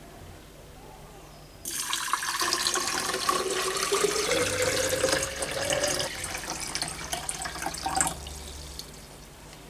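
Water from a tap running into a container, starting suddenly about two seconds in and stopping after about six seconds. The pitch rises gradually as the vessel fills.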